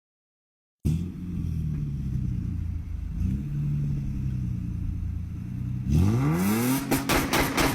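Car engine with a loud exhaust idling after a brief silence, then revved hard about six seconds in, its pitch climbing quickly, followed by a rapid string of sharp cracks and crackles from the exhaust.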